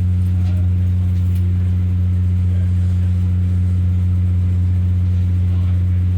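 Underfloor diesel engine of a Class 144 Pacer railbus running with a steady low hum that does not change in pitch.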